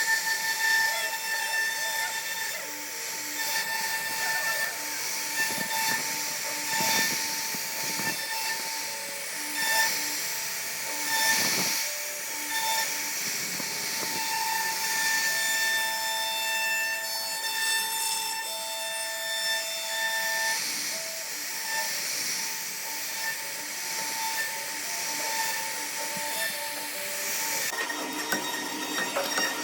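CNC router spindle running with a steady high whine over the hiss of the bit cutting wood, while shorter tones start and stop; the sound changes a couple of seconds before the end.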